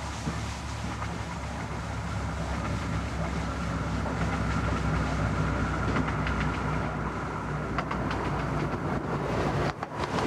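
A 15-inch gauge miniature railway train running along the line with a steady low hum, its wheels clicking over the rail joints in the later seconds.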